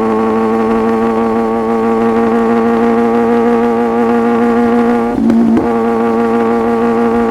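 Sport motorcycle engine running at a steady high pitch under way, with a brief break in its note about five seconds in.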